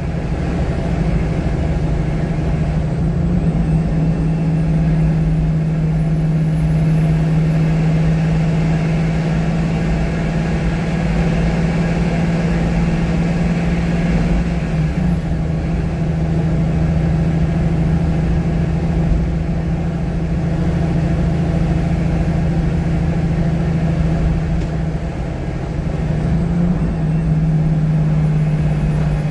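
VDL SB200 single-deck bus engine running, heard from the back row of the cabin: a steady drone whose note shifts briefly about halfway through and again a few seconds before the end. A faint high whine rises in the first few seconds and holds for about ten seconds.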